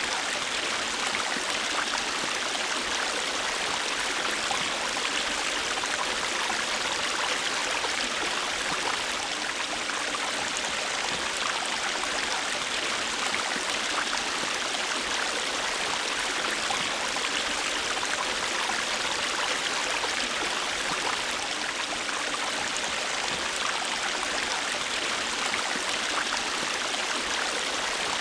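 River water flowing over rocks: a steady rushing and splashing with no change.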